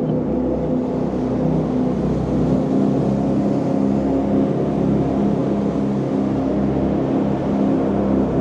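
Jet boat's engine running under way, a steady drone over a constant rush of wind and water, heard from aboard the boat.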